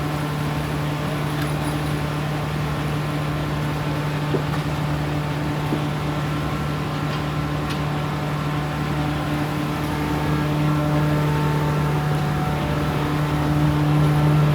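A machine's engine running steadily with a constant low hum, growing louder about two-thirds of the way through and again near the end.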